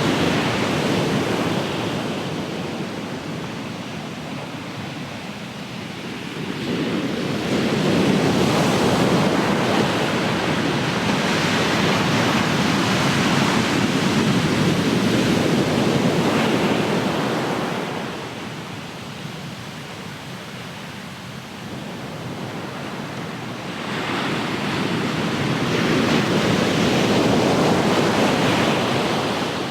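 Ocean surf: waves breaking and washing up the shore as a loud, even rush. The surf is loud at the start and eases off, swells again about seven seconds in and holds for about ten seconds, eases, then swells once more near the end.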